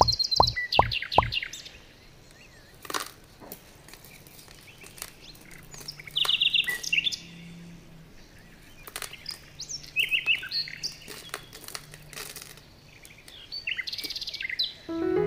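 Birdsong: short high chirping trills every few seconds. A quick run of plops fades out in the first second, and a few light clicks follow as small pebbles are set down.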